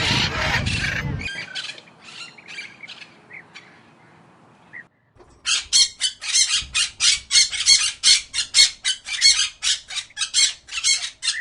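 Parrot calling with a few scattered chirps, then a rapid run of short, harsh squawks, about four a second, during the second half.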